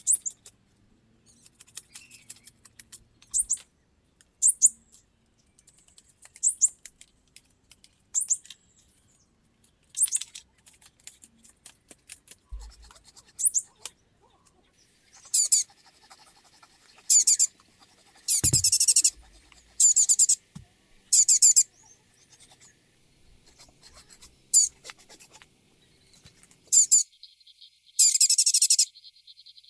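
Birds chirping: short high calls every second or two, then from about halfway, louder warbling bursts lasting a second or so.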